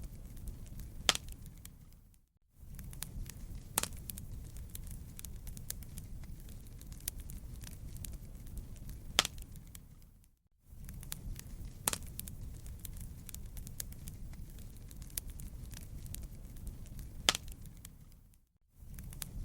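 Wood fire crackling in a fireplace: a steady low rumble with frequent small crackles and several sharp, louder pops. The sound fades out and back in three times, about every eight seconds.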